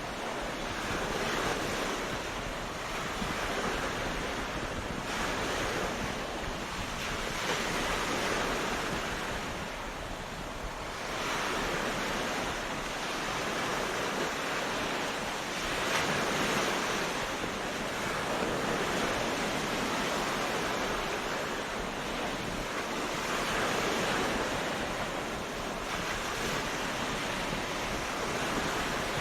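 Ocean waves breaking on a beach, a steady wash that swells and eases every few seconds, with a little wind.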